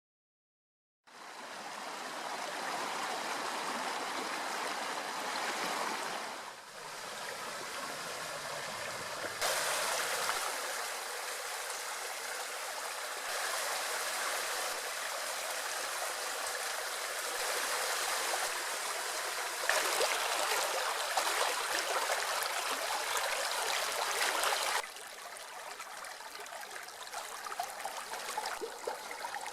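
River water flowing, a steady rush and babble that starts about a second in and shifts abruptly in loudness and tone several times.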